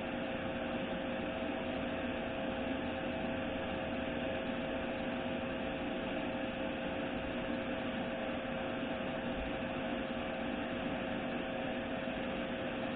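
A steady mechanical hum with a few steady tones in it, unchanging throughout.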